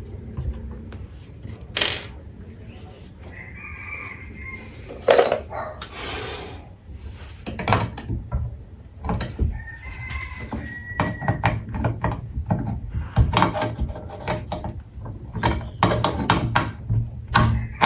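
A run of knocks, taps and clatter from hand work, coming thicker in the second half, with a short hiss about six seconds in.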